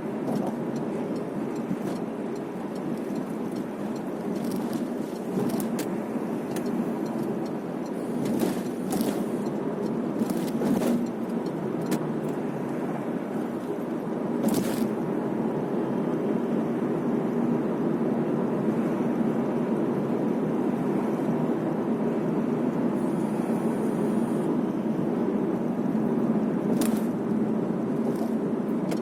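Steady low rumble of a car heard from inside the cabin, with a few faint clicks scattered through it.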